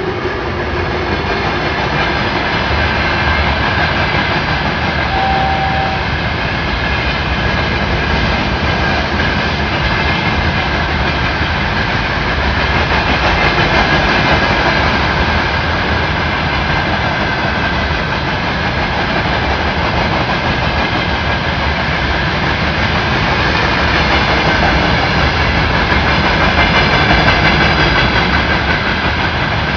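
Freight train rolling past, its wagons' wheels running over the rails in a loud, steady rumble with some clickety-clack and a continuous high whine over it.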